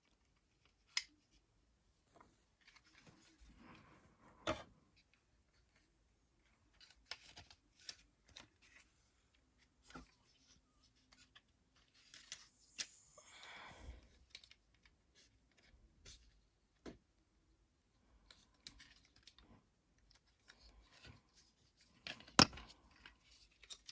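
Plastic action-figure and upgrade-kit parts being handled and tapped together: scattered sharp clicks and snaps with soft rubbing and rustling in between, the loudest click near the end.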